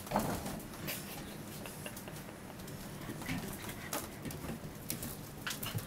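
Bullmastiff puppies playing and scuffling, with scattered light taps and scuffles.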